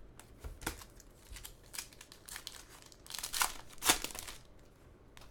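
Foil trading-card pack wrappers and cards being handled: crinkling and rustling in short scattered strokes, with a louder cluster of rustles about three to four seconds in.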